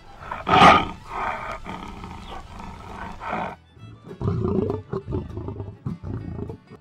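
Lion roaring, a loud roar about half a second in followed by a string of shorter, lower growling calls, over background music.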